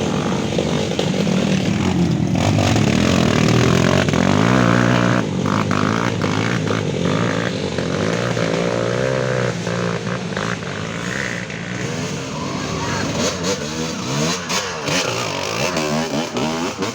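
Off-road trail motorcycle engines revving hard, their pitch rising and falling again and again as the bikes struggle through mud, with more than one engine heard at once.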